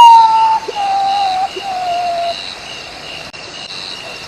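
Common potoo singing its mournful whistled song: a series of long, pure notes, each lower than the last, fading in loudness and ending about two and a half seconds in. After that only a steady high background drone remains.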